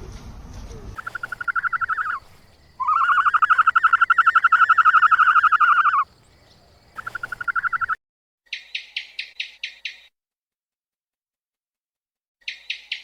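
Animal calls. First three fast-pulsed trills, the middle one long, held for about three seconds. Then, after a pause, two quick runs of about eight sharp chirps each.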